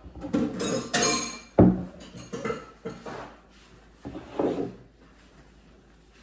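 Kitchen clatter: dishes and utensils clinking and knocking, with one heavier thump about one and a half seconds in.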